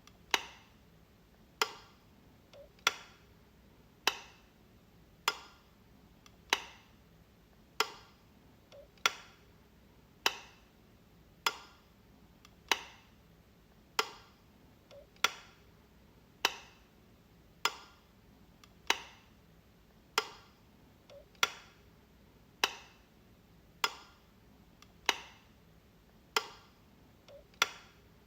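Light switch being flicked over and over, a sharp click about every 1.2 seconds, with a fainter click now and then between them.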